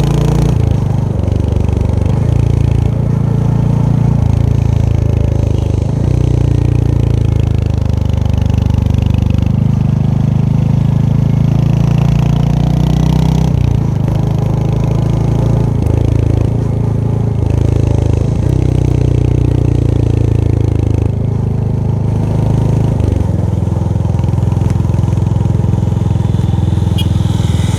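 Royal Enfield Hunter 350's single-cylinder engine and exhaust heard while riding, its revs rising and falling in steps every few seconds as the throttle and gears change.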